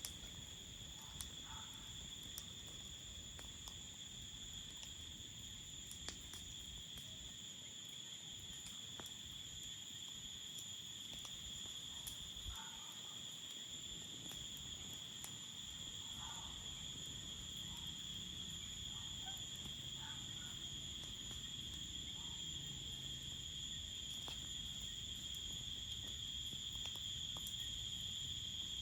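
A steady chorus of crickets, one unbroken high-pitched trill, with scattered faint sharp pops and crackles from the campfire.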